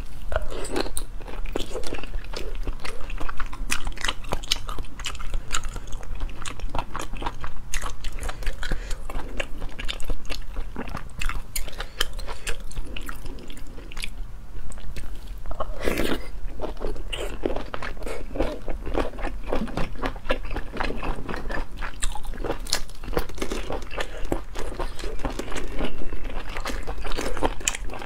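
Close-miked chewing and biting of sea snail meat dipped in chili sauce: a dense run of sharp wet mouth clicks, with a louder bite about halfway through.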